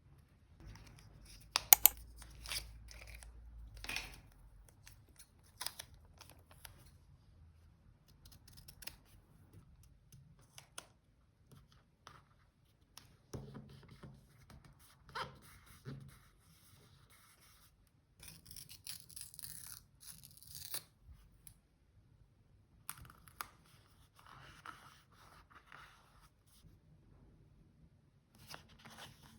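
Paper crafting: scissors snipping through paper and paper tearing, with scattered small taps and rustles. The sharpest snips come about two seconds in, and there is a longer scraping, tearing stretch a little past the middle.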